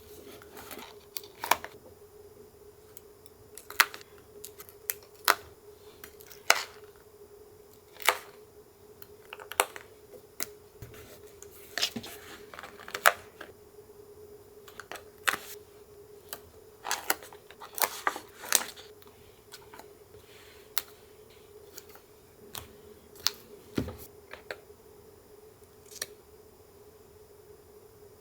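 Paper collage crafting: scattered sharp clicks and snips of scissors cutting paper and of paper pieces handled and pressed into a journal, coming irregularly, over a faint steady hum.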